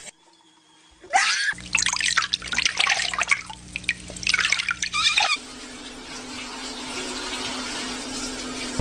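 Running water splashing unevenly, starting about a second in, then settling into a steady spray for the last few seconds.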